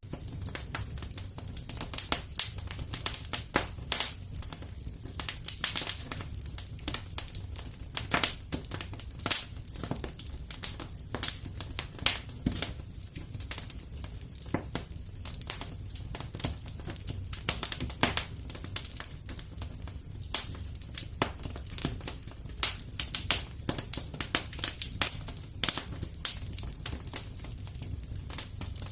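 Fireplace wood fire crackling, with sharp pops coming irregularly several times a second over a low steady rumble.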